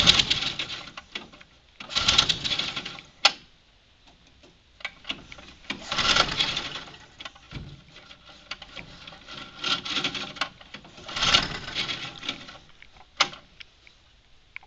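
Citco go-kart's small engine being cranked with its recoil pull-starter with the choke on: about five whirring, rattling pulls of about a second each, and it does not catch.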